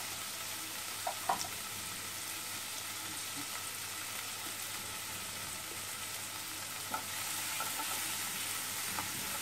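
Onion, tomato and spices sizzling in mustard oil in a non-stick kadai: a steady frying hiss. There are a few light clicks about a second in, and from about seven seconds a silicone spatula stirs the pan and the sizzle gets a little louder.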